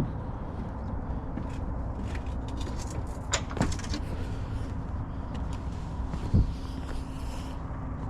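Fast-flowing river water rushing, a steady low rumble, with a few sharp knocks a little over three seconds in and a single heavy thump past six seconds.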